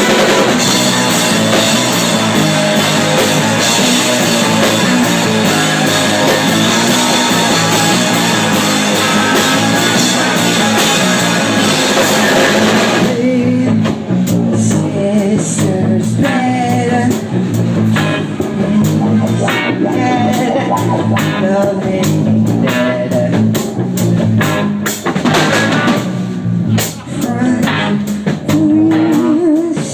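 Rock band playing drums and electric guitar. About halfway through, the dense cymbal wash cuts off, leaving separate drum hits under the guitar.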